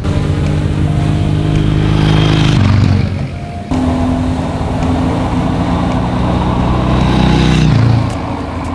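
Triumph Thruxton motorcycle engine pulling hard under acceleration. The sound dips briefly about three seconds in, picks up again, and eases off near the end.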